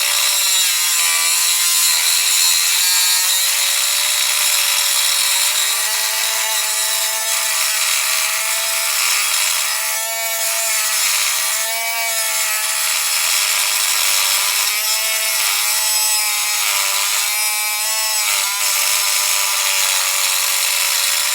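A high-speed power tool cutting into a steel padlock: a continuous motor whine over a loud hiss of the cut, its pitch sagging and recovering several times as the tool bites into the metal.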